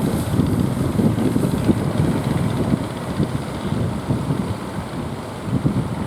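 Strong wind buffeting the microphone: a loud, uneven low rumble that rises and falls in gusts.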